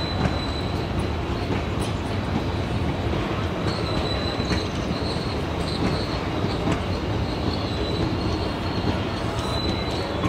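Passenger coaches of an Indian Railways train rolling past, their wheels clacking over the rail joints with a steady rumble. A thin, high wheel squeal comes and goes.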